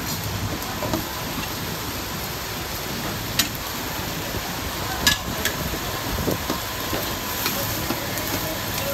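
Minced beef sizzling and frying in a karahi while it is stirred, with a few sharp clinks against the pan, the loudest about five seconds in.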